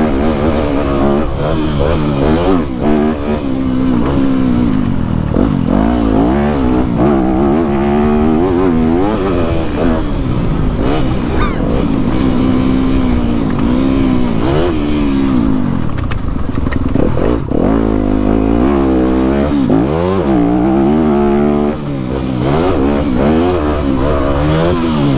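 Dirt bike engine revving hard and backing off over and over, its pitch climbing and dropping every second or two as it is ridden round a motocross track.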